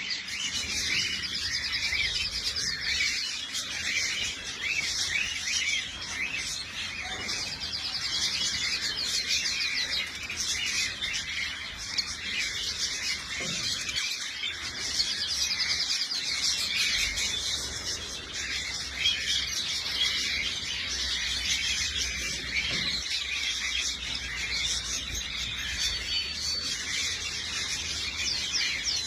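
A mixed aviary of small finches and canaries chirping and calling together in a dense, continuous chatter, with fast trills breaking through now and then.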